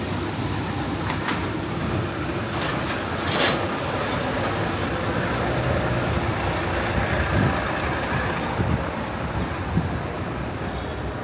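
Steady low rumble of a heavy vehicle running close by in street traffic, with a few faint hums and clicks.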